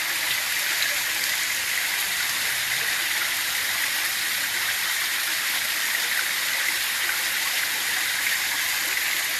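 Waterfall: a steady, hissing rush of falling water that holds at an even level without a break.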